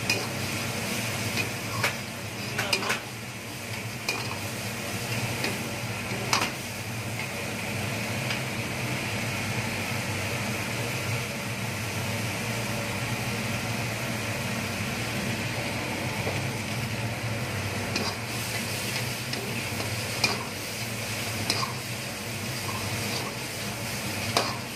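Thick chicken masala gravy sizzling in a kadai as a ladle stirs and scrapes through it, with now and then a sharp clink of the ladle against the pan.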